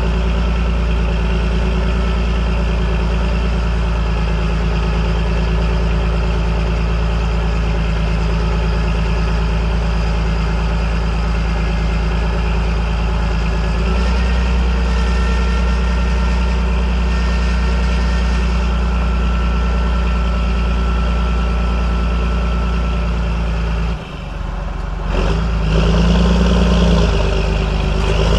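John Deere 8420 tractor's six-cylinder diesel running steadily. About 24 s in the sound drops off abruptly, then comes back louder with its pitch moving, as the engine is revved up.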